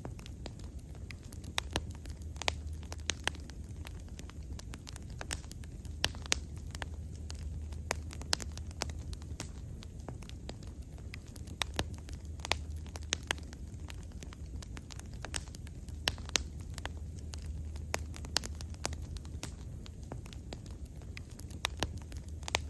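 Wood fire burning, crackling with irregular sharp pops over a steady low rumble of the flames.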